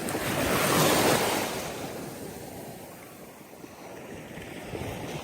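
Surf washing up a sandy beach: a wave rushes in, loudest about a second in, then fades as it runs back.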